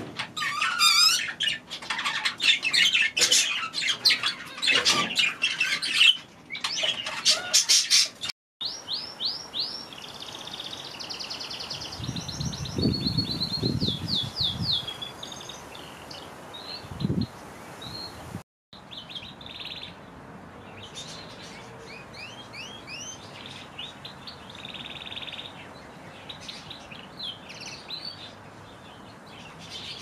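Small aviary birds chirping and calling, in three stretches with short breaks between them. The first stretch is the loudest and busiest; the later two have quick runs of high chirps. A few low thumps come in around the middle.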